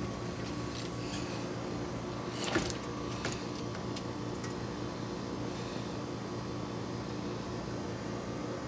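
A steady mechanical hum, with a single faint click about two and a half seconds in.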